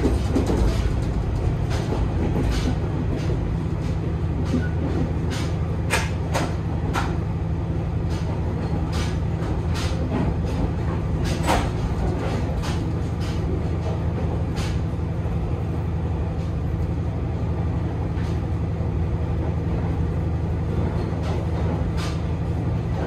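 Interior of a diesel railcar running along the line: a steady low engine drone and running rumble, with scattered sharp clicks as the wheels pass over rail joints.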